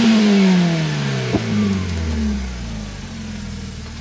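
UAZ Bukhanka's V8 engine coming off high revs, its pitch falling steadily over about two seconds to a low idle, with one sharp knock just over a second in. The driver is backing off after failing a clay climb without the differential locks engaged.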